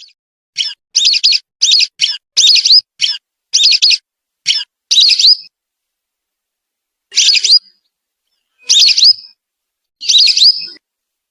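Whistling duck (belibis) calls played as a bird-luring recording. A quick run of about a dozen short, high whistled notes is followed after a pause by three longer whistled calls about a second and a half apart.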